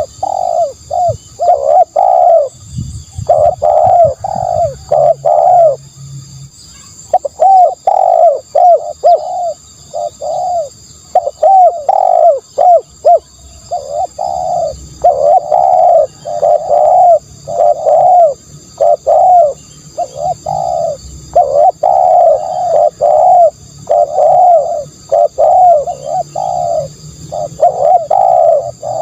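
Spotted dove cooing over and over: loud phrases of several coos each, repeated with short gaps between them.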